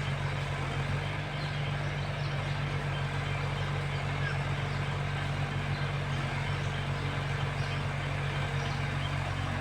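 Heavy diesel engine running steadily at a constant speed, a low even drone with no revving.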